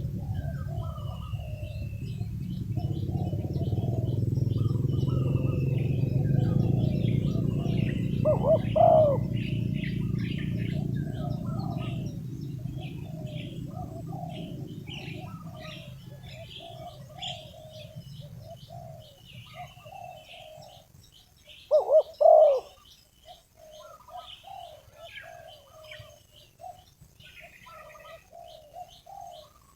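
Spotted dove (tekukur) used as a decoy, cooing over and over to call in wild doves, with small birds chirping. A low rumble fades out over the first half, and two louder short calls stand out, one about nine seconds in and one about twenty-two seconds in.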